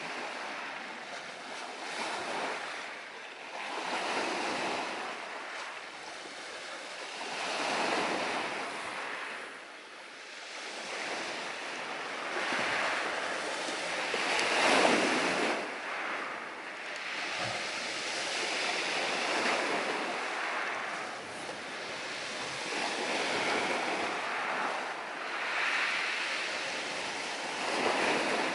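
Ocean surf washing onto the shore, the rush of the waves swelling and fading every few seconds.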